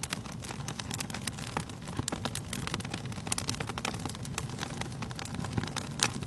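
Wood fire burning in a fireplace, crackling with many small irregular pops over a low rumble of flames, with one louder pop about six seconds in.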